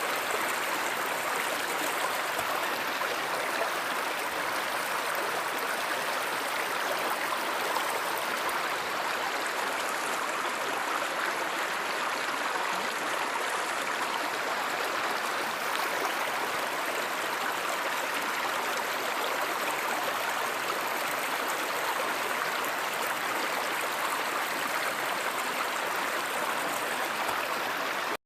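River or stream water running in a steady, even rush.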